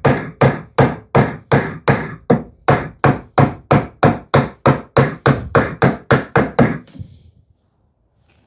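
A hammer striking in a steady run of quick, even taps on wood, roughly eighteen blows, stopping about seven seconds in.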